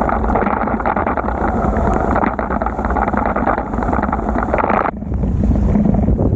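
Wind rushing over the microphone of a bike-mounted camera while riding in heavy rain, mixed with the wet hiss of tyres and spray. The higher part of the hiss cuts out suddenly about five seconds in, leaving a low rumble.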